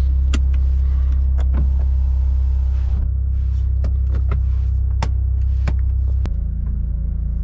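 BMW M2 Competition's twin-turbo 3.0-litre straight-six idling, heard from inside the cabin, with a string of sharp clicks as the centre-console buttons and gear selector are worked. The low idle drone drops a little about six seconds in.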